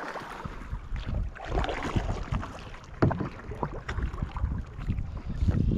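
Wind buffeting the microphone on a kayak, an uneven low rumble, with scattered knocks and handling sounds from the boat; one sharper knock comes about three seconds in.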